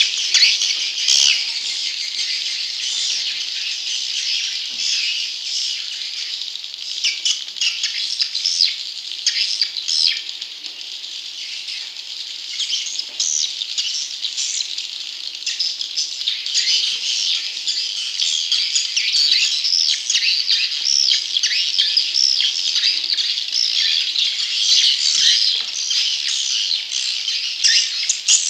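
Recorded chorus of young swiftlets: a dense, continuous chatter of many short, high chirps overlapping one another. It is a swiftlet-farming lure call, played to draw wild young swiftlets to a nesting house.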